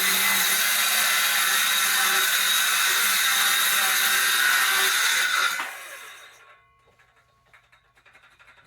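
Power saw running steadily as it cuts along a marked line in a board. It shuts off about five and a half seconds in and winds down, leaving faint handling noises.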